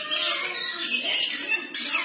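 Long-tailed shrike singing a fast, unbroken run of scratchy chattering and harsh notes, its varied free-style song.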